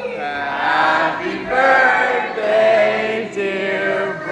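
Several voices singing together in long held notes, starting abruptly.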